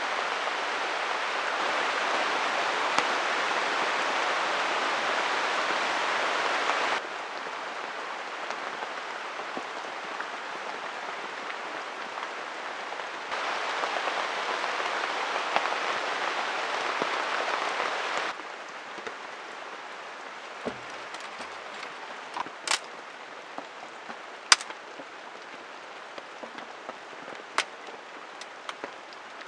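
Steady heavy rain falling, a dense even hiss that gets abruptly louder or softer several times. In the last third the rain is quieter, with a few sharp separate taps or drips.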